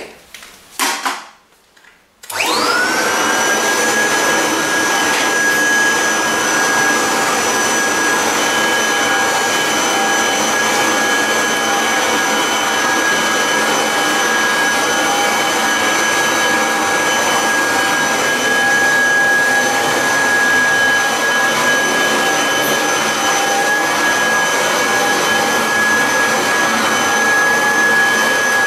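1986 Kirby Heritage 2 upright vacuum cleaner switched on after a couple of brief knocks, its motor spinning up with a quickly rising whine, then running steadily with a high-pitched whine over a rushing of air.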